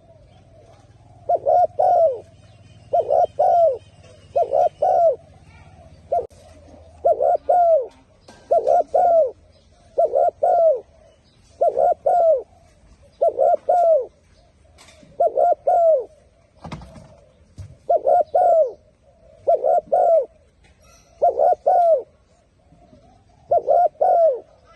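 Spotted dove cooing over and over: a short phrase of two or three low coos about every second and a half. A single brief knock comes about two-thirds of the way through.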